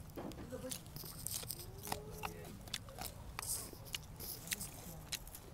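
Close-up chewing of a raw, fresh leaf: irregular crisp crunches and wet mouth clicks, with a short hum about two seconds in.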